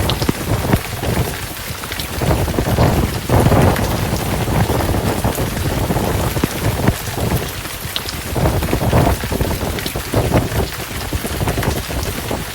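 Heavy rain falling steadily in a storm, with scattered drop spatters and low rumbles of thunder swelling and fading several times.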